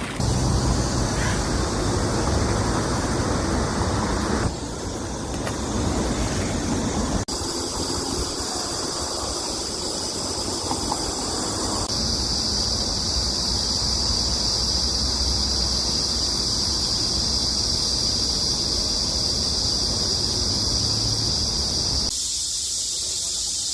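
Cicadas buzzing steadily in a high, even drone over a rushing outdoor noise, the mix changing abruptly several times.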